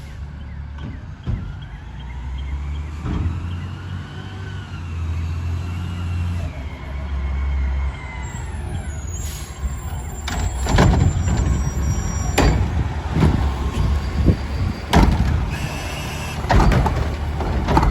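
Garbage truck's diesel engine revving, with a whine that rises and falls as its Curotto-Can arm works. From about ten seconds in comes a run of sharp clattering and bangs.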